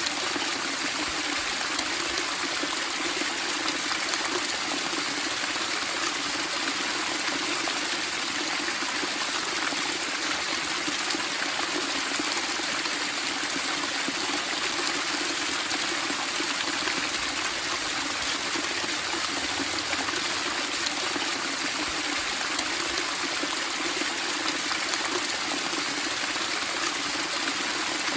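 Running water babbling and splashing steadily, an even, unbroken rushing with no change in strength.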